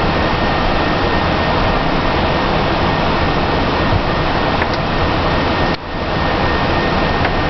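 Steady loud rush of air and fan noise on a Boeing 767-300 flight deck, with a faint steady high whine over it. The noise dips briefly for an instant about six seconds in.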